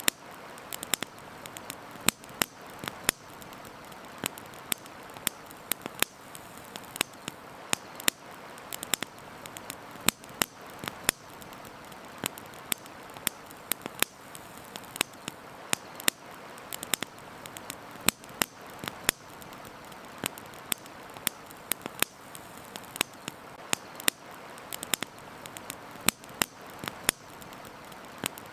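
Campfire crackling: frequent sharp pops and snaps, several a second at uneven spacing, over a steady hiss.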